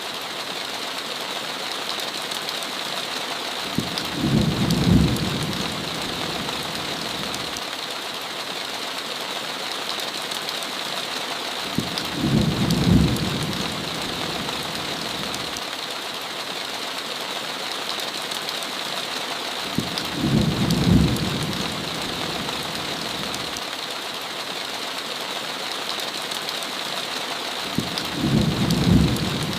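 Steady hiss of heavy rain with a low rumble of thunder four times, about eight seconds apart, each lasting about two seconds.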